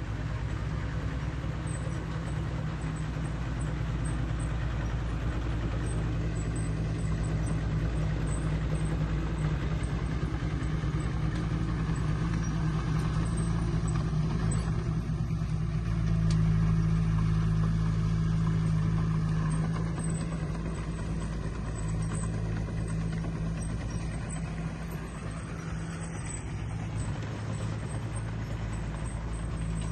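Heavy-equipment diesel engine running steadily with a low hum, rising in level about halfway through and easing off again a few seconds before the end.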